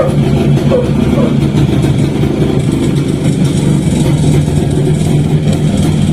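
The restored Čezeta 175/501 scooter's single-cylinder two-stroke engine running steadily at idle.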